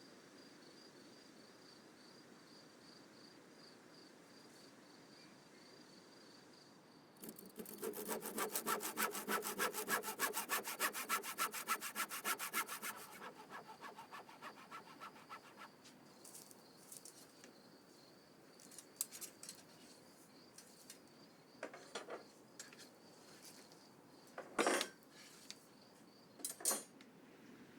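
Hand saw cutting through wood in quick, regular back-and-forth strokes, starting about seven seconds in and easing off into a few weaker strokes. A handful of short, scattered knocks of wood follow, and a faint high steady tone sits in the quiet stretches.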